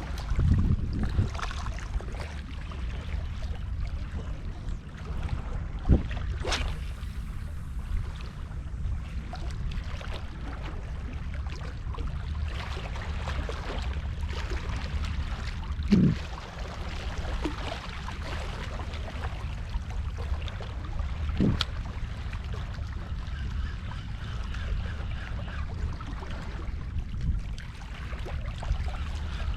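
Wind rumbling on the microphone over sea water washing on a rocky shore, broken by a few sharp knocks, the loudest about 6 and 16 seconds in.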